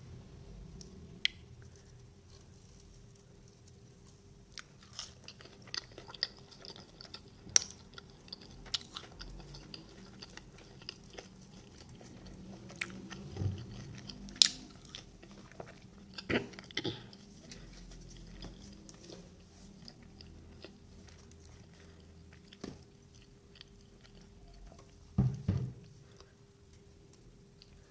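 Close-up chewing and biting of bread pakora (gram-flour-battered fried bread), with irregular moist mouth clicks and a few louder crunches scattered through.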